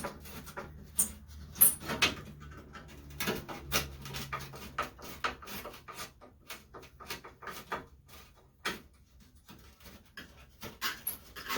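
Irregular clicks, taps and knocks of hand tools and metal parts being handled, some loud and sharp, with a faint steady hum underneath.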